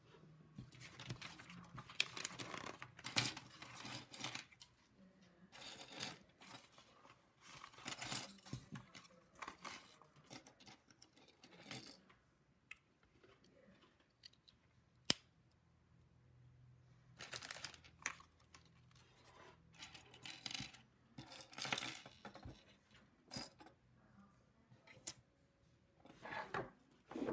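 Small plastic LEGO pieces clattering and clicking as they are handled and rummaged through, in bursts of rattling with a single sharp click partway through.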